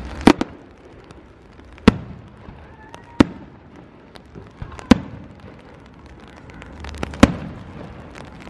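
Aerial firework shells bursting overhead: five sharp bangs about one and a half to two seconds apart, with a few fainter pops between them.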